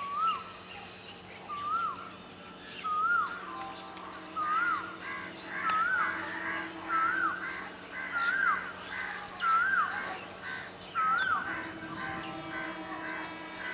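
A bird calling over and over: a whistled note that rises and then drops, repeated nine times at about one and a half second intervals and loudest in the middle of the series. A faint steady low hum runs underneath.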